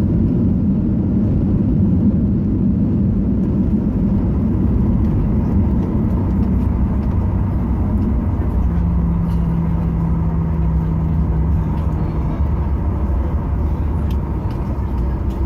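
Steady low rumble inside a Southwest Boeing 737 cabin as the jet rolls on the ground after landing: engine and wheel noise. About nine seconds in, a steady hum joins for three or four seconds and then stops.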